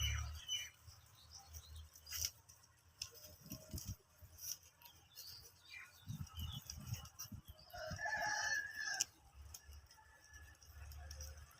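A bird call lasting about a second, two-thirds of the way in, among faint chirps, scattered light clicks and a few low thumps.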